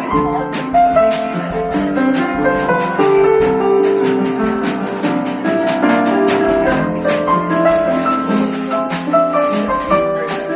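Live jazz combo playing, led by piano chords and melody, with light percussion ticking steadily in time.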